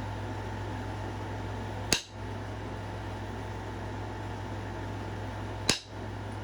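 Two sharp clicks about four seconds apart as knapping strokes snap flakes off a stone point, over a steady low hum.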